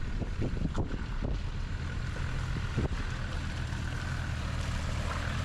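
Off-road 4x4 engine running steadily. A few short knocks come in the first second and a half, and one more near three seconds in.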